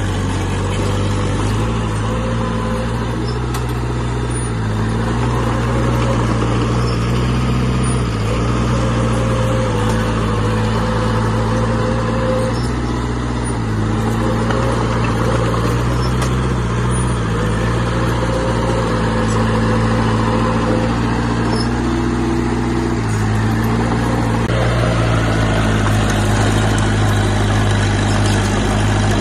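Heavy earthmoving machine's diesel engine running continuously under working load, its pitch stepping up and down several times as the load and throttle change.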